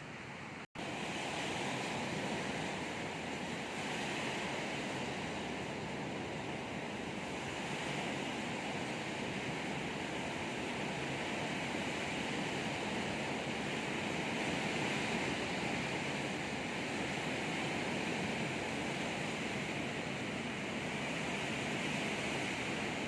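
Heavy rain and strong storm wind, a steady rushing noise.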